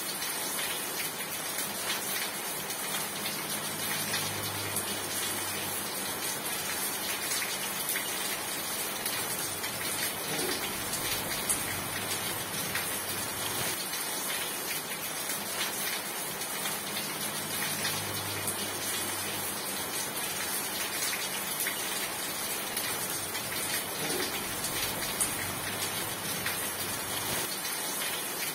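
Steady rain falling on a surface: an even, dense hiss with scattered drop ticks.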